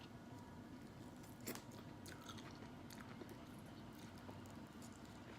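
Faint close-up chewing and crunching of fried food in a person's mouth, with small irregular crackles and one louder crunch about a second and a half in.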